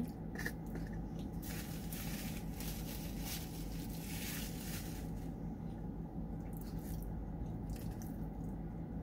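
Soft, wet chewing of chili cheese fries, with the rustle of a paper napkin wiping the mouth around the middle, over a steady low hum.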